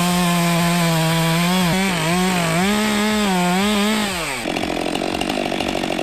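Two-stroke chainsaw running at high revs, its pitch steady and then dipping and rising as it loads and recovers in the cut. About four and a half seconds in, the sound cuts abruptly to a rougher, pulsing engine sound.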